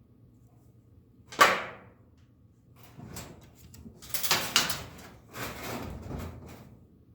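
A sharp clack about a second and a half in, then a few seconds of scraping and rattling: TIG filler wire being handled and bent into a loop for a hanger.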